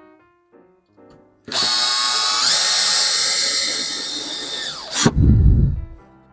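Power drill driving a screw through a metal bracket into a wooden handle. The motor whines for about three and a half seconds, steps up in pitch partway through and sinks as it winds down, then there is a sharp knock and a short low thud.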